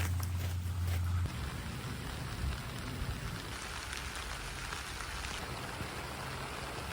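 Steady rain falling, an even hiss of drops. A loud low hum runs under it for about the first second and then cuts off suddenly.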